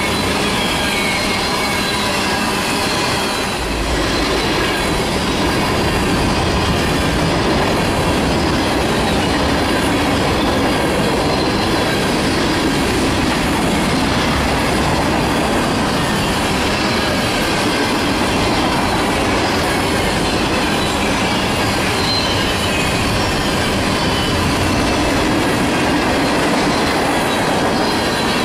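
Freight train cars (tank cars, covered hoppers and boxcars) rolling past: a steady, loud rumble of steel wheels on rail, with a thin, wavering high squeal from the wheels.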